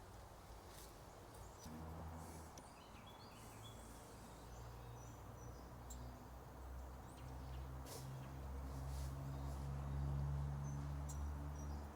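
Faint outdoor ambience: a low, steady hum that grows louder toward the end, with scattered high bird chirps and a few light clicks.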